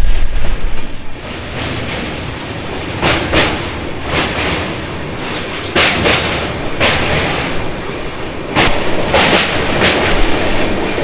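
Poorva Express passenger train running on the track: a steady rumble of the coach with irregular clacks of the wheels over rail joints. The rumble is heavier for about the first second, then drops.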